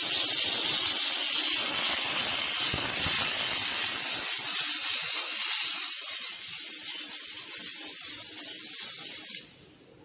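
A robotic welding arc hissing and crackling steadily, cutting off abruptly near the end.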